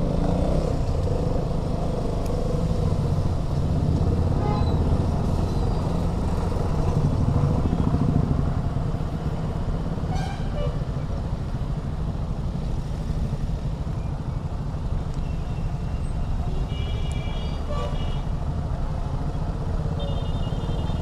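KTM Duke 200's single-cylinder engine running steadily at highway speed under a rush of wind and road noise. Short vehicle horn toots sound a few times in the last few seconds.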